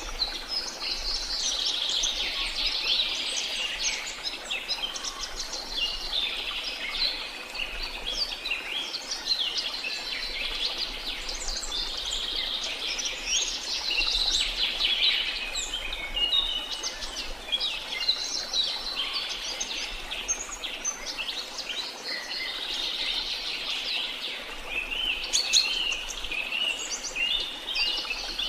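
Dense chorus of birds chirping, many short overlapping calls without pause, over a steady, fainter hiss of falling water.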